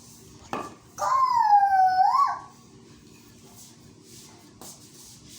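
A pet bird giving one drawn-out whistled call about a second in, sliding down in pitch and then rising sharply at the end, with a short click before it and a few faint clicks later.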